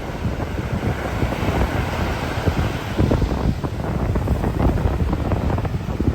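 Strong gusty wind buffeting the microphone over the rush of large waves breaking on the Tsugaru Strait shore, with a wave's hiss swelling up around the middle.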